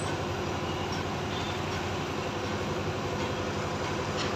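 Large diesel engine of a mobile crane running steadily under load while lifting a concrete bridge girder, a deep even drone with a rapid pulse. The crane is an older machine that is labouring with the lift.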